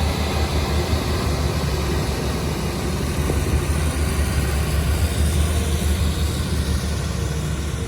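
Transport for Wales Class 175 diesel multiple unit pulling out of the station, its diesel engines running under power as a steady, heavy low drone that is loudest about five seconds in and eases slightly near the end.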